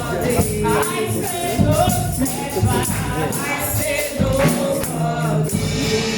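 Gospel praise music: singing voices with a tambourine shaken and struck in a steady beat.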